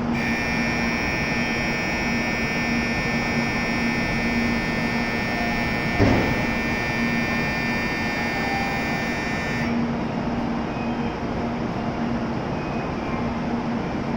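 Shinkansen platform departure bell: a steady electronic ringing that cuts off suddenly after about ten seconds, signalling that the doors are about to close. A low steady hum from the standing train runs under it, with a single sharp knock about six seconds in.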